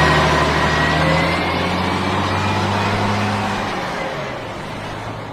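Bus engine running, a steady low engine note that rises slightly about three seconds in, then eases and fades gradually.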